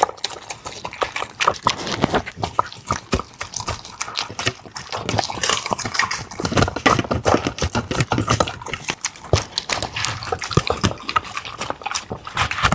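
A dog eating soft, wet food: quick, irregular wet smacking and chewing clicks.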